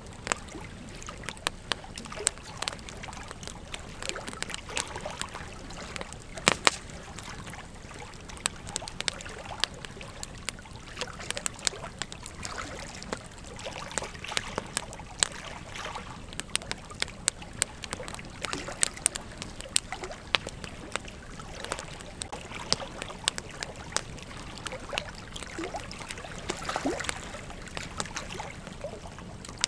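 Campfire crackling: wood snapping and popping in quick, irregular clicks over a steady low rush of flame, with a sharper pop about six and a half seconds in.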